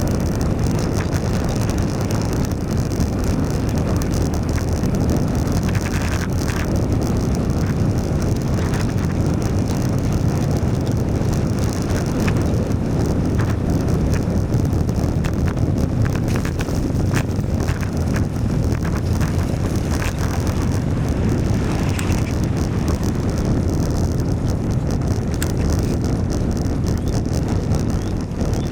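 Steady wind rush over the microphone of a moving bicycle, with tyre noise from a wet road and a few light clicks scattered through it.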